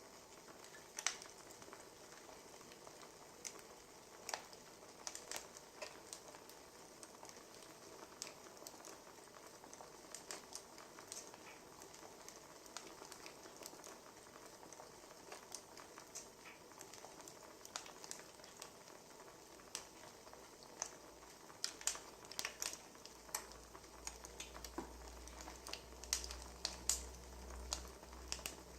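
Wood fire crackling: a soft steady hiss with irregular sharp pops and snaps, which come thicker near the end. A low hum joins in about two-thirds of the way through.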